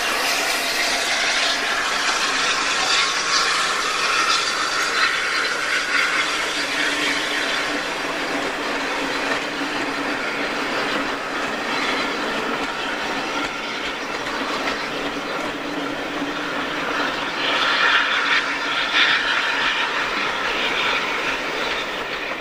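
Rake of passenger coaches rolling over a railway bridge: a steady running noise of wheels on rails, with clatter over the rail joints, easing slightly as the last coach goes by near the end.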